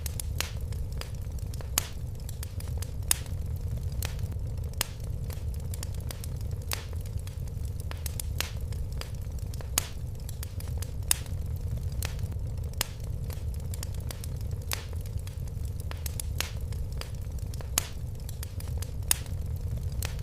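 Fire burning in a fireplace, crackling and popping irregularly over a steady low rumble of flame, with a few louder pops.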